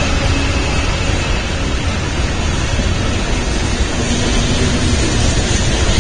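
BNSF train's cars rolling past: a loud, steady rumble and hiss of wheels on rail.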